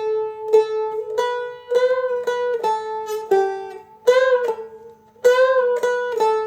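Seagull Merlin, a small fretted dulcimer-style instrument, picking a single-note melody phrase of about a dozen notes on its first string, with the drone strings ringing faintly underneath. Three of the notes are string bends that rise in pitch after being picked, about two, four and five seconds in.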